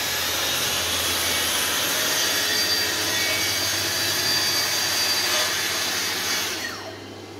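Festool TS 55 plunge-cut track saw running and cutting through a wooden panel along its guide rail, steady, then winding down near the end as the cut finishes.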